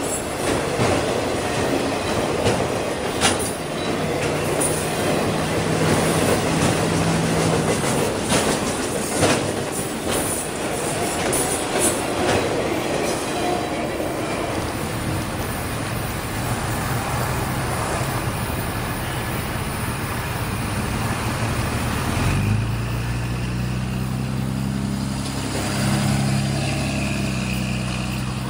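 CSX freight train rolling past, its cars clicking and clacking over the rail joints with occasional sharp knocks. Near the end a steady low drone comes in under the rolling noise.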